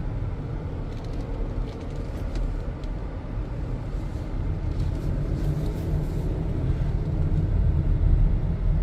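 Steady road and engine rumble of a car driving slowly, heard from inside the cabin.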